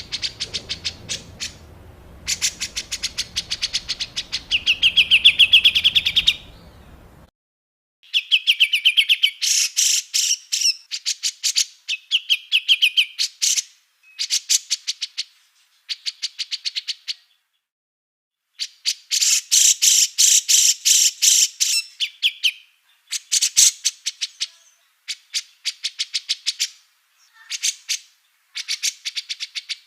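Small songbirds giving harsh, rapid chattering bursts: the 'tembakan kasar' rough calls used as masteran to train songbirds. Each burst lasts a second or two with short pauses between, and some end in a fast trill. A low background rumble runs under the first several seconds and cuts off suddenly.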